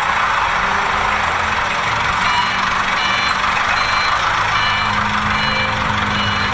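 A work vehicle's engine running with a steady noisy hum. About two seconds in, a reversing alarm starts beeping repeatedly.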